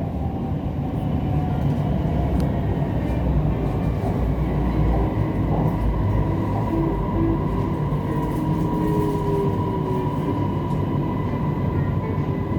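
Siemens Inspiro metro train running, heard from inside the car: a steady low rumble of wheels on track, with a thin steady whine coming in about halfway through as the train runs in toward a station.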